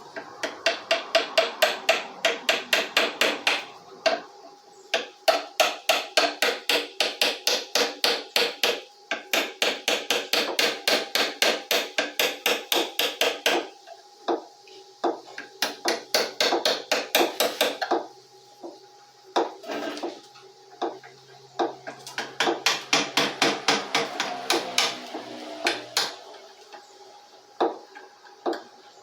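Rapid hammer strikes, about three to four a second, in runs of several seconds broken by short pauses.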